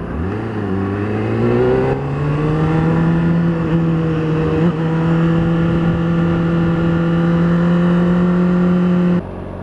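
Motorcycle engine accelerating, its pitch climbing for the first few seconds, then holding one steady pitch while cruising, until it drops away abruptly near the end.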